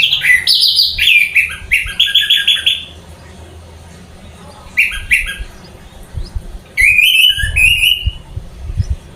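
Orange-headed thrush (anis merah) singing in full voice: fast runs of loud, sharp repeated notes in three phrases, with pauses near 3 s and 6 s.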